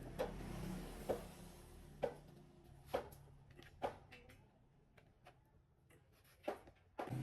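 Sharp taps about once a second, five in a row, followed by fainter, quicker ticks.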